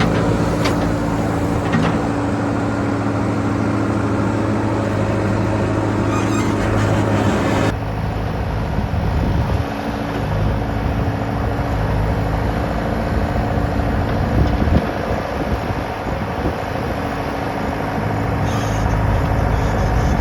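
JCB backhoe loader's diesel engine running steadily, with a sudden change in the sound about eight seconds in.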